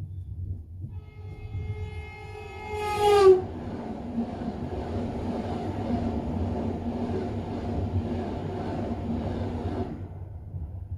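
A passing train sounds its horn, and the pitch drops sharply as it goes by. The rush of its cars passing close follows and stops suddenly about ten seconds in. The low rumble of the moving train continues underneath.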